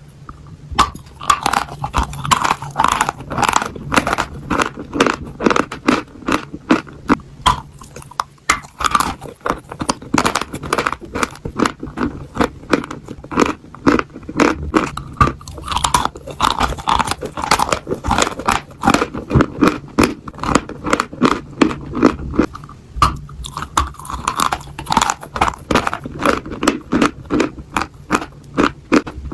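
A person biting and chewing a chunk of white chalk: crisp crunches in a steady run of about two to three a second.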